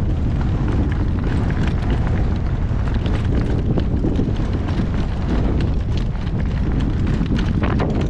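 Strong wind buffeting the microphone as a steady low rumble, with a horse's hoofbeats clicking through it.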